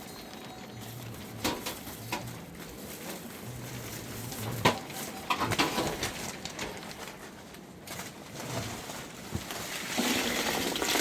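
Low cooing calls, like a dove's, repeating in short phrases, with a few sharp knocks and a rustling that grows louder near the end.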